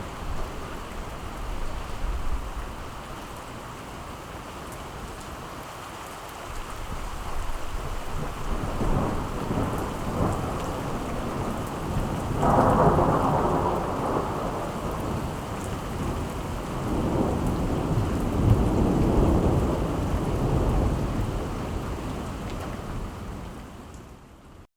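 Steady rain falling with rolling thunder: a rumble builds about a third of the way in, a sharper, louder peal breaks about halfway through, and another long rumble follows. The storm sound fades out at the very end.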